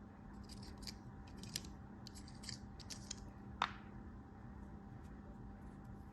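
Knife cutting soap cubes or kinetic sand, close-miked: a run of faint, crisp little crunching cuts, about two a second. About three and a half seconds in comes one sharper, louder cut.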